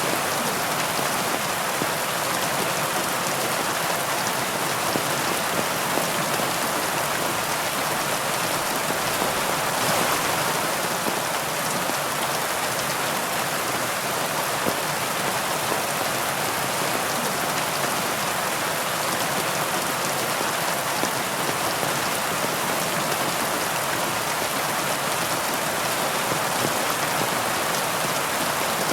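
Steady heavy rainfall, a dense even hiss of drops with fine scattered patter.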